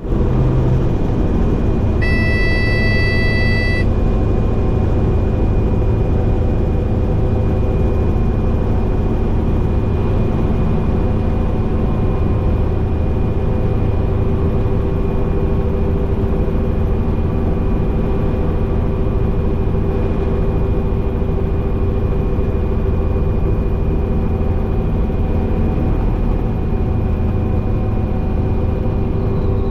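Robinson R44 helicopter's engine and rotor making a steady drone with a high whine during a power-off autorotation descent and landing. About two seconds in, a brief electronic tone sounds for about two seconds, and the drone's pitch rises slightly near the end.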